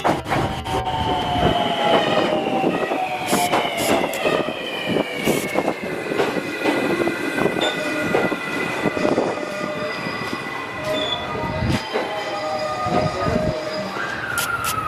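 Train moving on the rails, with a high whine that slowly falls in pitch throughout and many sharp clicks.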